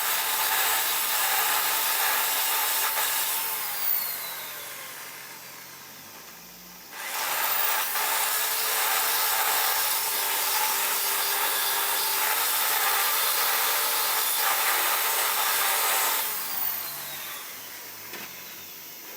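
Power tool running under load with a harsh rubbing, grinding noise, in two long runs. It winds down with a falling pitch about four seconds in, starts again about seven seconds in, and winds down again near the end.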